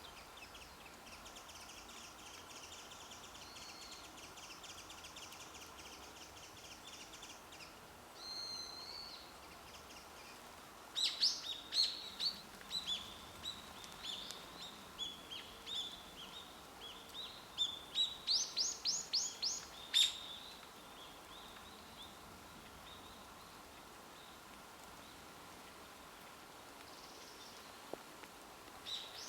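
Songbirds singing. A long rapid trill runs through the first seven seconds or so, then a run of loud, sharp chirps and short phrases follows from about 11 to 20 seconds in, over faint outdoor background noise.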